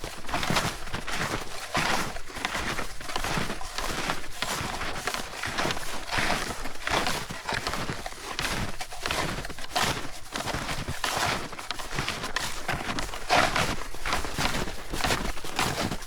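Footsteps of snowshoes crunching in snow at a steady walking rhythm, about two steps a second.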